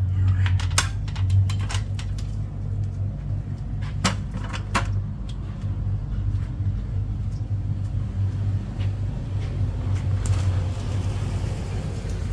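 A steady low engine hum from a running vehicle, with scattered sharp clicks and knocks of things being handled.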